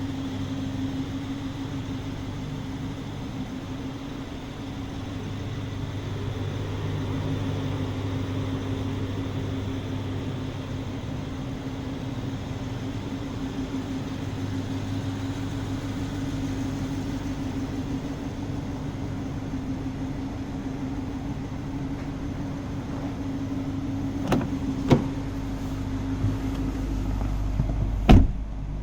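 2017 BMW X5 xDrive50i's 4.4-litre twin-turbo V8 idling steadily with a low, even hum. Near the end come a few sharp clicks or knocks, the loudest just before the end.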